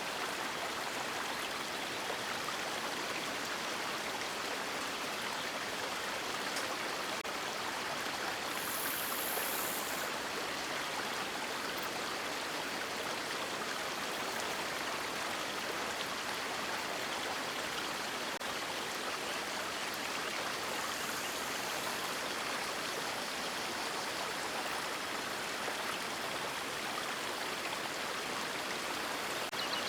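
River water rushing and falling in a steady, even wash. Two brief, faint high hisses rise above it, about a third of the way in and again about two-thirds in.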